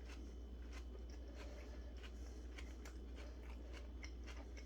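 Faint chewing of a mouthful of chicken sandwich with lettuce, onion and garlic: soft crunchy clicks about every half second, over a low steady hum.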